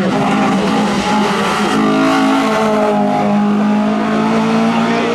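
Race car engine running hard at high revs on a hillclimb course. Its steady pitch steps a couple of times.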